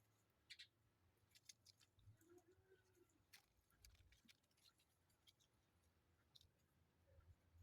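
Near silence: room tone with a few faint, scattered clicks and light scratches.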